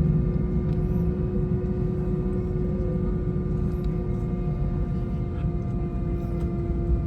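Airbus A320-232 jet engines heard from inside the passenger cabin under high thrust: a steady low rumble with a constant hum of several held tones over it.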